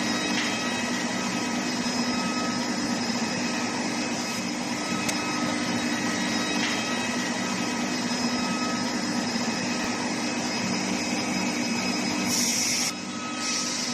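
Steady machinery noise of a steel pipe induction heating line running: a constant low hum and several steady higher tones over a broad hiss. The level dips slightly near the end.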